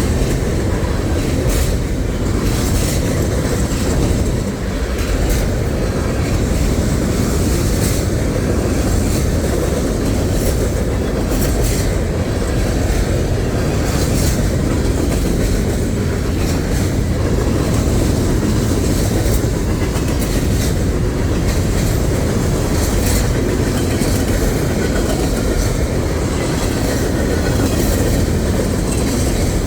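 A freight train's cars rolling steadily past close by, with the wheels clacking repeatedly over the rail joints.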